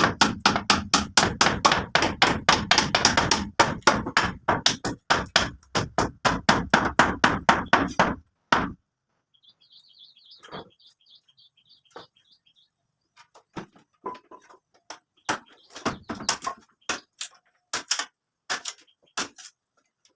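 Rapid hammering, about four blows a second, that stops about eight seconds in. After a short high chirping, scattered single knocks follow.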